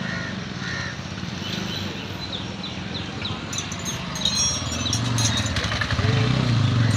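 A motor vehicle engine running nearby, its low hum growing louder about two-thirds of the way through. A bird chirps repeatedly in the middle.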